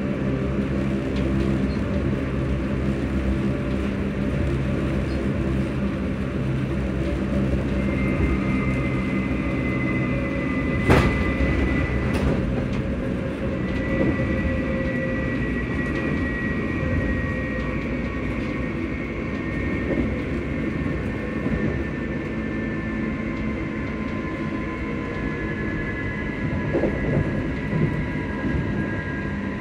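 Electric train's VVVF inverter and traction motors humming under way, with high whining tones that slowly fall in pitch. A single sharp knock about 11 seconds in.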